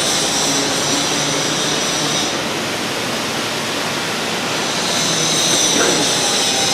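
Steady, loud mechanical noise, a hiss with a high whine that fades out for a couple of seconds in the middle and then returns.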